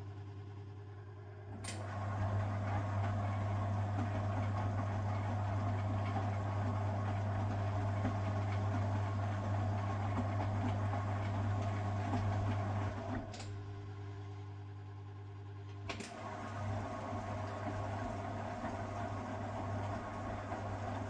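A 1969 Zanker VA520 washing machine running, with a steady hum throughout. Its Hanning gear motor starts with a click about a second and a half in, runs for about twelve seconds, and stops with another click. After a pause of a couple of seconds, a third click starts it again.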